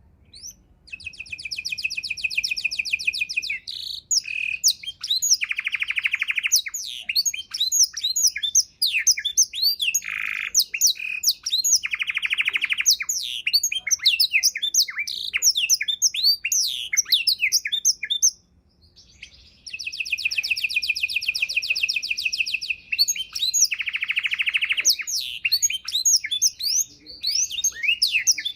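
Domestic canary singing a long, varied song: fast high trills and rapid chirps broken by several lower buzzy rolls, with a short pause about two-thirds of the way through.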